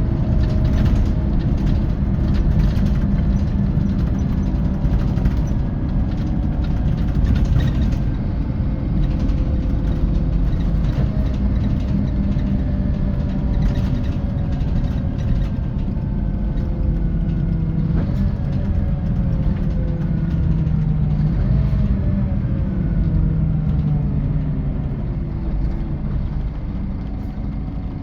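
Scania K450 coach running on the road, heard from on board: a steady low rumble of the rear-mounted diesel engine with road noise, and a whine that slowly falls in pitch as the coach slows.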